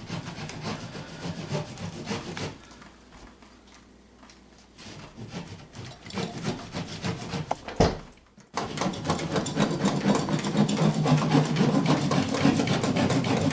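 A saw cutting through water-damaged ceiling drywall with rasping strokes. The cutting softens for a couple of seconds, breaks off with a sharp knock and a short pause about two-thirds of the way through, then carries on steadier and louder.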